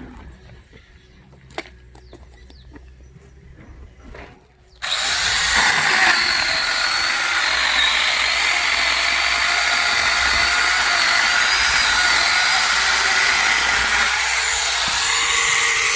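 An angle grinder converted into an electric chainsaw with a bar-and-chain kit starts suddenly about five seconds in and runs steadily with a high whine, cutting firewood. Before it, a few faint knocks.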